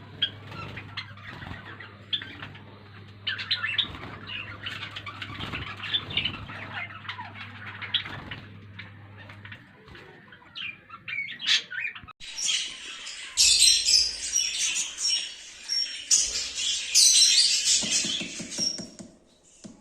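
A flock of lovebirds chirping and squawking in dense, overlapping short calls, with a low steady hum beneath for the first half. About twelve seconds in, the chirping becomes louder and shriller.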